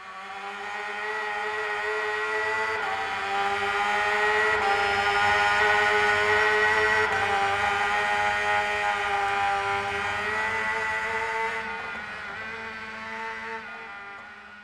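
Race motorcycle engine running at high revs at speed, holding a steady pitch with slight shifts. It fades in, then fades out near the end.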